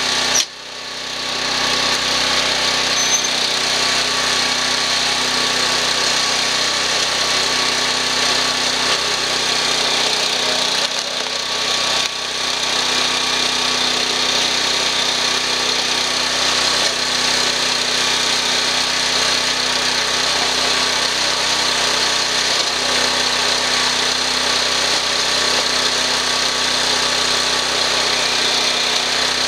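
Engine of a screw-type cone log splitter running steadily, with a sharp dip in level about half a second in and a shorter one around eleven to twelve seconds in.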